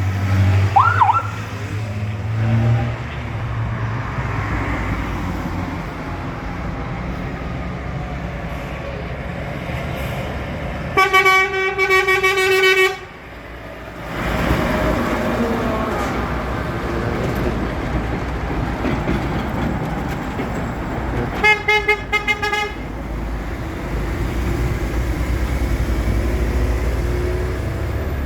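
Heavy trucks rolling past with a steady engine rumble. A truck horn sounds one long blast about a third of the way in, and a quick series of short toots about two thirds in.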